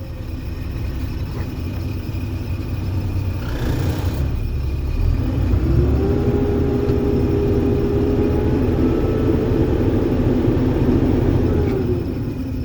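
2008 Mack dump truck's diesel engine running with a low rumble and a short hiss about three and a half seconds in. About five seconds in the engine speeds up, holds a steady higher speed for about six seconds, then drops back near the end.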